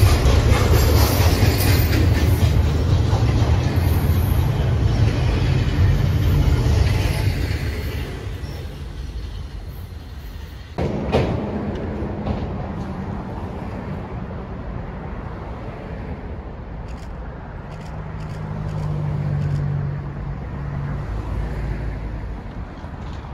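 Union Pacific intermodal freight train rolling past close by, its cars rumbling and clacking over the rail joints, fading away after about seven seconds. About halfway through, the sound cuts abruptly to a quieter, steady low rumble.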